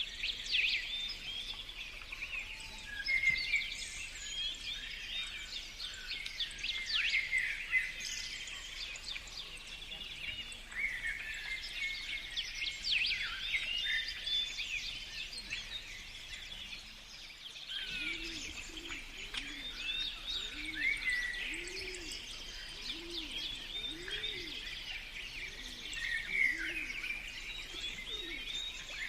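Many birds singing at once, a steady chorus of overlapping chirps and whistles. About two-thirds of the way in, a low note repeated about once a second joins beneath them.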